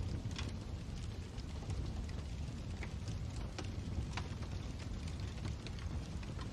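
Wood fire burning in a fireplace: a steady low rumble of the flames with irregular sharp crackles and pops, a few of them louder, about three and four seconds in.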